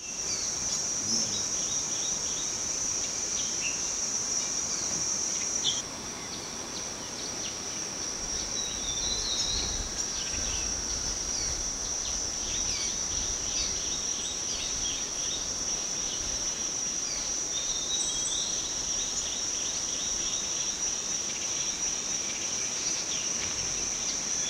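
Tropical rainforest ambience: a steady high-pitched insect trill, with many short chirps scattered over it. The trill drops a little in level about six seconds in.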